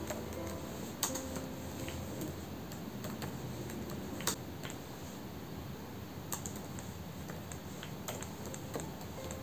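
Keys on a computer keyboard tapped now and then in irregular, scattered clicks, over a steady background hiss.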